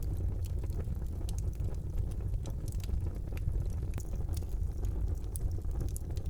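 Fire burning in a fireplace: a steady low rumble of the flames with frequent small sharp crackles and pops scattered irregularly throughout.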